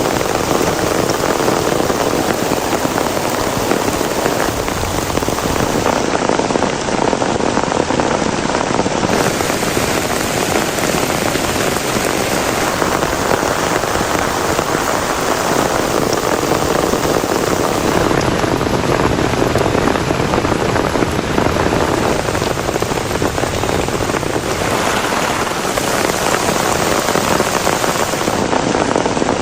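Heavy rain pouring steadily, a dense, even hiss of drops hitting a surface.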